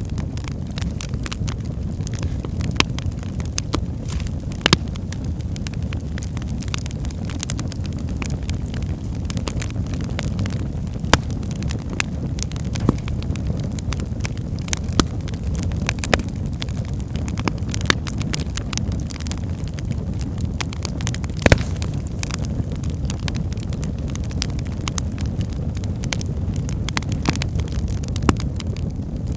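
Wood fire burning in a fireplace: a steady low rumble of the flames with logs crackling and popping at irregular moments, a few pops sharper than the rest.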